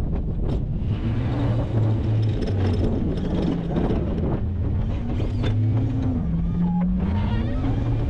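Plow truck engine running, its pitch rising and falling slowly as the revs change.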